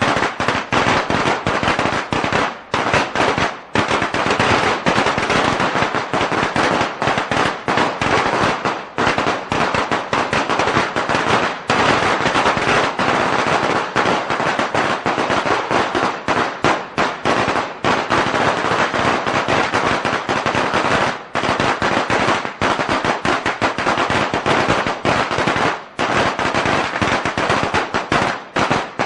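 A long string of firecrackers going off in a dense, rapid, unbroken crackle, with a few momentary lulls.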